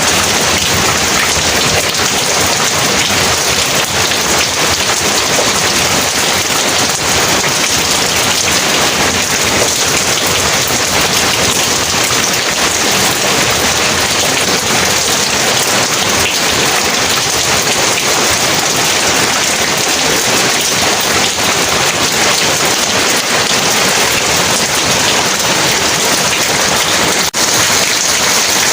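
Heavy rain pouring steadily, a dense even hiss of drops on surfaces, briefly dipping in level for an instant near the end.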